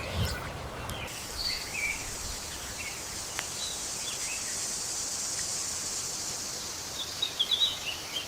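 Tropical forest ambience: a steady, high insect drone with short bird chirps here and there and a quick run of chirps near the end.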